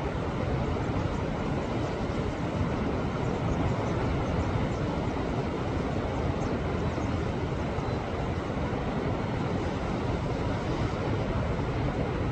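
Sea waves surging against a rocky shore: a steady rush of surf without let-up, with fine splashing hiss over it in the first half.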